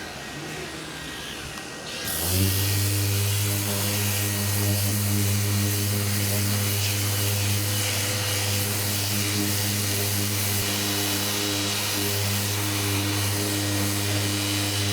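An electric power tool in a body shop switching on about two seconds in and running steadily: a low hum with a hiss over it.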